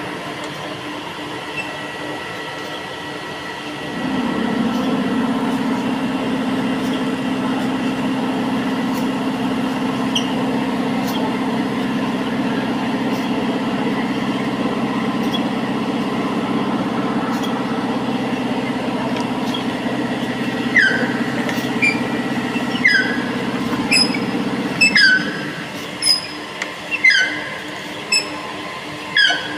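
A drill runs steadily from about four seconds in and stops near the end. In its last few seconds and after it stops, there is a series of short squeaks, each falling in pitch, with sharp clicks, about one a second.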